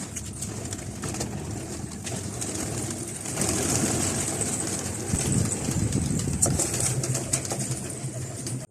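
A flock of pigeons cooing together, growing louder about three seconds in.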